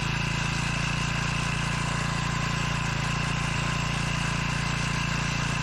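Hangkai 4 hp outboard motor running steadily on the last of the petrol in its carburettor, with the fuel cock shut off so the carb is run dry for storage.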